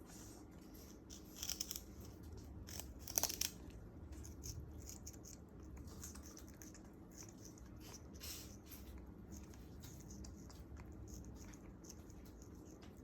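African grey parrot biting and tearing at a piece of sugarcane: a run of small crunching, fibrous tearing sounds, the loudest about one and a half and three seconds in.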